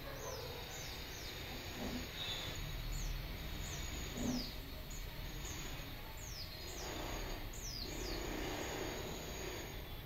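Small bird chirping: about a dozen short, high chirps, each sliding down in pitch, in loose runs. A soft bump comes about four seconds in.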